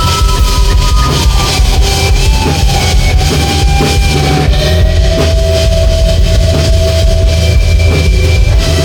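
Live rock band playing loud: electric guitar and drum kit, with long held notes that slide slowly in pitch over a steady pounding beat.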